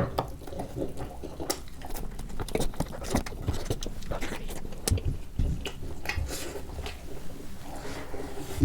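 Close-miked chewing and wet mouth smacks of someone eating turkey wings in a thick spicy sauce: a quick, irregular run of clicks and squelches.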